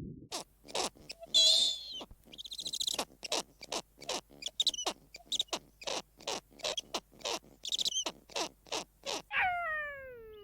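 Animal sounds: a rapid series of sharp clicks or knocks, about two to three a second, mixed with short high chirping and trilling calls. Near the end comes a single call that slides down in pitch, like a cat's meow.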